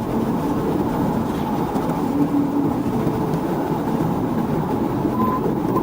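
Steady road and engine noise of a police car driving fast during a pursuit, without a break.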